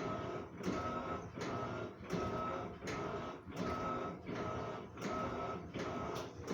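Top-loading agitator washing machine in its wash cycle, the motor whirring in short, even strokes as the agitator reverses back and forth, about one and a half strokes a second.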